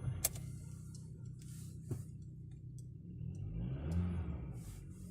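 Volkswagen Polo sedan engine running just after a cold start, idling roughly; about four seconds in, the engine speed rises and wavers briefly, the loudest part. The rough running during warm-up is the misfire (engine shake) that the owner is showing.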